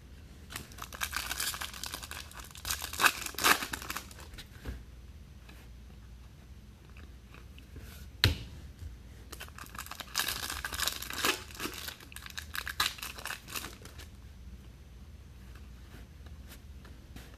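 Foil trading-card pack wrapper being torn open and crinkled, in two spells of crinkling, with a single sharp tap about eight seconds in.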